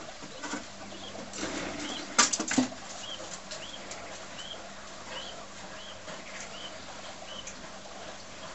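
A bird chirping faintly and evenly, about two short chirps a second, with a few sharp knocks about two seconds in.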